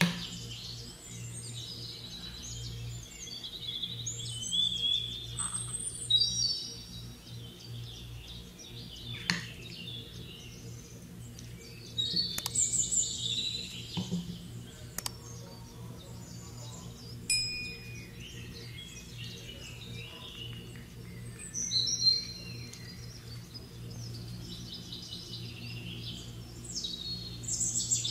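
Birds chirping and singing in quick, varied calls throughout, over a steady low hum, with a few sharp clicks.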